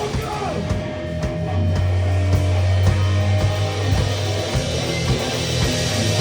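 Live rock band playing: drum kit with guitar, and a heavy sustained bass note coming in about a second and a half in.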